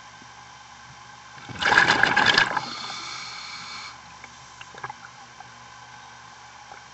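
Scuba diver's exhaled breath bubbling out of the regulator underwater: a loud burst of bubbles lasting about a second, trailing off into a quieter hiss.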